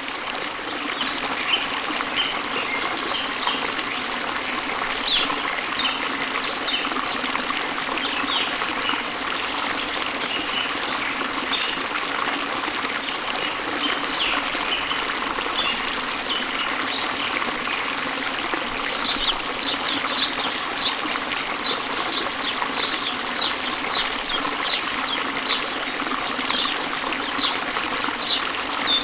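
Steady rushing of a waterfall or stream with birds chirping over it. About two-thirds of the way through, one bird starts repeating a short high note over and over, a little more than once a second.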